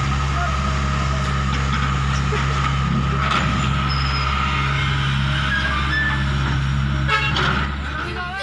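Hitachi 120 excavator's diesel engine running steadily with a low drone and a steady high whine above it, with a short run of clicks and clatter about seven seconds in.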